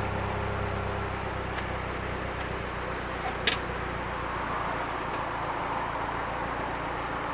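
Alfa Romeo 156 2.0 Twin Spark inline-four idling steadily through an Ulter sport exhaust, with a single sharp click about three and a half seconds in.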